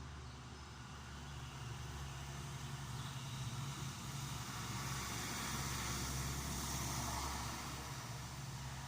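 A motor vehicle passing by: a steady road-noise rush swells to its loudest about six seconds in, then fades as it moves away, over a low hum.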